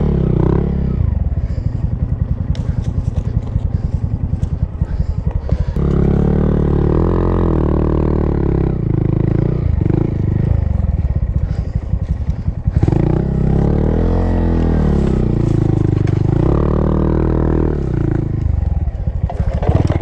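Small single-cylinder motorcycle engine running steadily at low revs, then revving up and down twice under varying throttle from about six seconds in, and easing back near the end.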